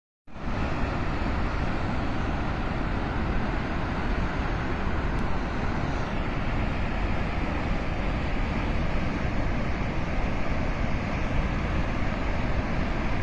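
Floodwater rushing in a steady, dense noise, heaviest in the low end.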